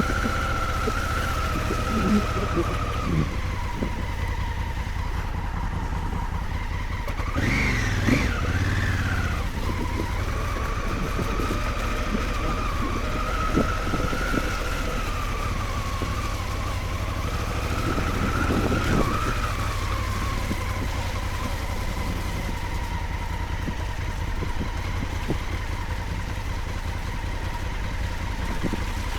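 Honda Africa Twin motorcycle's parallel-twin engine running steadily while riding off-road, with a whine that rises and falls with the throttle. There are a few short knocks about eight seconds in and again near nineteen seconds.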